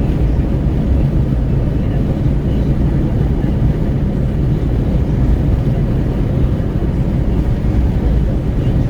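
Wind rushing and buffeting through an open car window, over tyre and road noise inside the cabin of a Renault Kwid driving at speed. Steady and loud throughout, heaviest in the low rumble.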